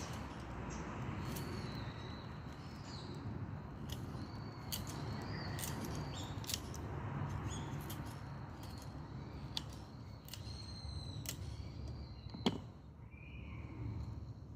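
Dry perilla branches burning in a Solo Stove wood-burning stove: a steady low rush of flame with frequent crackles and pops, and one loud sharp pop near the end. Birds chirp in the background.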